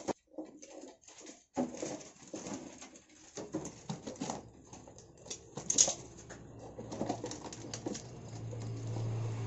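Caged or boxed small birds fluttering and scrabbling, giving irregular flurries of soft clicks, knocks and rustles. A low steady hum comes up near the end.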